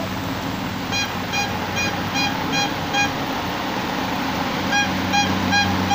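A heavy vehicle's electronic warning beeper sounds in short even beeps, about two and a half a second: six beeps from about a second in, a pause of nearly two seconds, then more near the end. A diesel engine runs steadily underneath.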